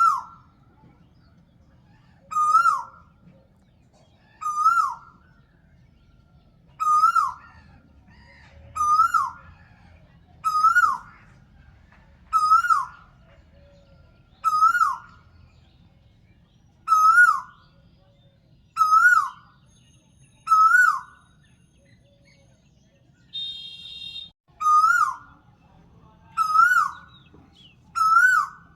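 A bird calling over and over: a short, loud whistled note that rises and then drops sharply, about once every two seconds. A brief, quieter buzzy sound comes in once, a little before the end.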